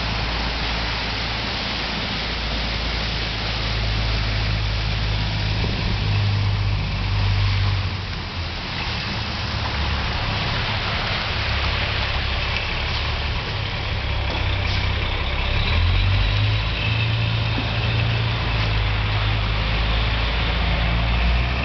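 Road vehicle engines running, a steady low rumble with a constant hiss over it, growing a little louder about sixteen seconds in.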